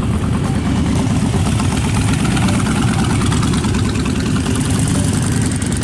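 Motorcycle engine running steadily, a loud, even rumble with no revving.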